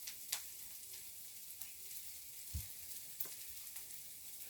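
Chopped onion sizzling as it fries in a pan: a steady, faint hiss, with a few short light clicks and one low knock partway through. The onion is nearly done frying.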